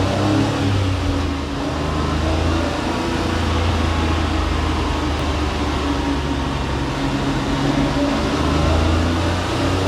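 Honda Acty kei truck's three-cylinder engine running on a chassis dyno, buzzing at a fairly steady speed with small rises and dips in pitch.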